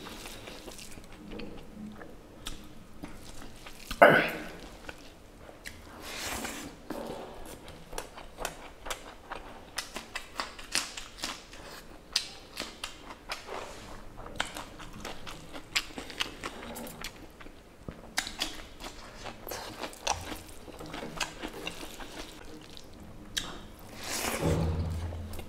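Close-miked eating by hand: chewing and biting on rice and spicy pork curry, with crunchy bites of raw green chilli and cucumber, heard as many short mouth clicks. One sharp, loud sound about four seconds in.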